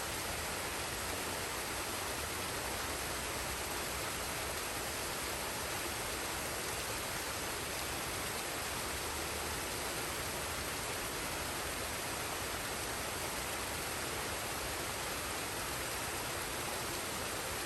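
Forest waterfall and stream: a steady, even rush of falling and flowing water.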